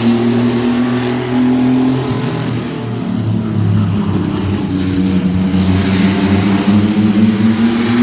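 Engines of several racing mini trucks running together on the track, their pitches holding fairly steady with small dips and rises.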